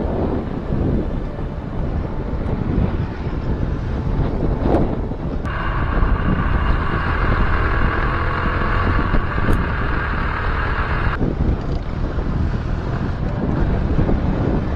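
Wind rushing and buffeting over a helmet or bike-mounted microphone on a moving motorcycle, under the engine's running. About five seconds in, a steady, higher-pitched hum starts suddenly and cuts off abruptly some six seconds later.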